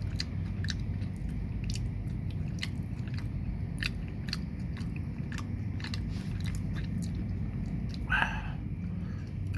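Someone chewing crunchy keripik chips close to the microphone: a string of irregular crisp crunches over a steady low background rumble.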